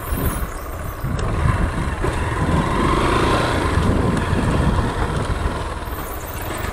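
Honda XRE 190 motorcycle's single-cylinder engine running at low speed as the bike rolls along a cobblestone path; the sound gets louder about a second in.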